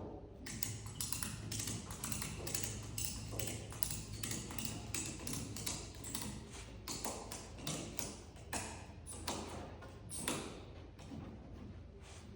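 A run of light, irregular taps and clicks, several a second, over a steady low hum.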